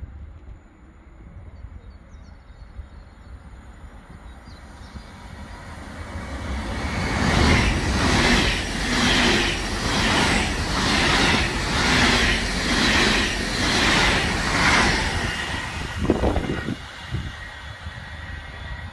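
A passenger train passes through without stopping. Its noise builds over several seconds to a loud rush with a regular beat about once a second from its wheels on the track, then fades as it moves away, with a single thump near the end.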